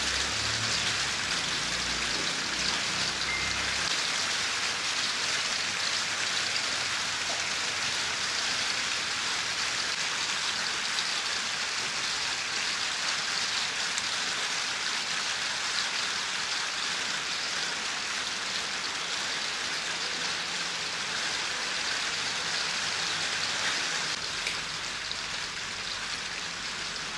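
Steady, even hiss like rain falling, with a low rumble in the first few seconds.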